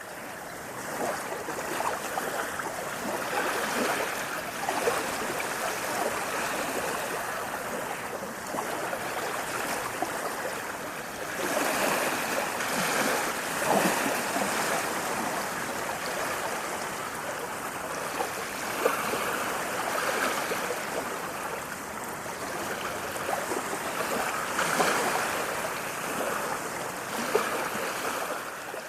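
Running water rushing steadily, swelling a little in loudness every few seconds, with a few brief sharper splashes.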